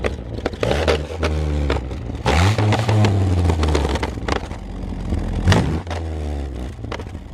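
Car engine revving up and down several times through a loud aftermarket exhaust, with sharp pops and crackles in between.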